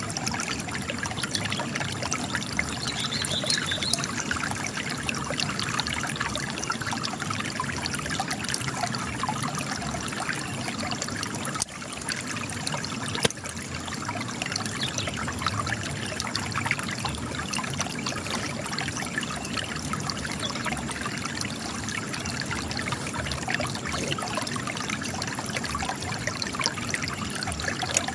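Spring water trickling and gushing out of cracks in rock, a steady splashing flow.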